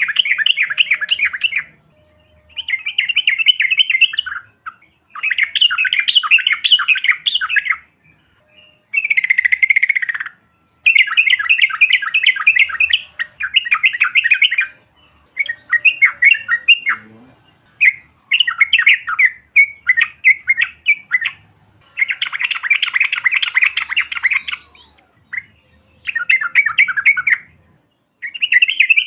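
Yellow-vented bulbul (trucukan) singing: loud, rapid chattering phrases of one to two seconds each, repeated again and again with short pauses between.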